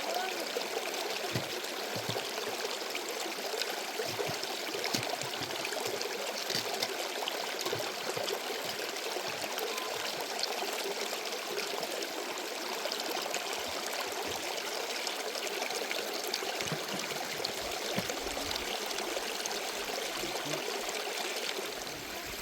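Water running steadily, the even rushing of a small stream or spring flow.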